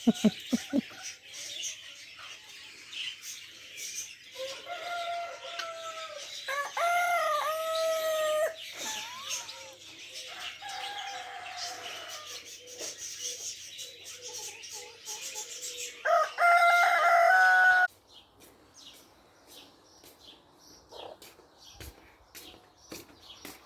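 Rooster crowing twice, the second crow loud and held for about two seconds before it cuts off suddenly, with scattered bird chirps around it.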